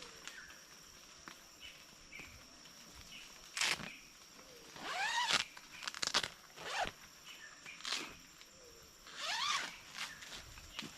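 Forest ambience: a steady high insect drone, with an animal call, most likely a bird, sounding twice, each a short rising-then-falling call. Scattered sharp clicks and snaps run through it.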